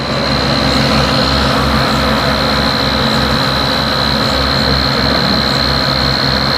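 Tractor diesel engine running hard at high revs, with a pulsing low throb and a steady high-pitched whine over it.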